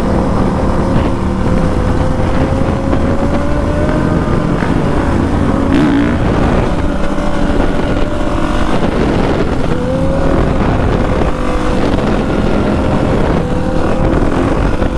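Dirt bike engine running steadily under way, its pitch holding mostly level with small dips and rises.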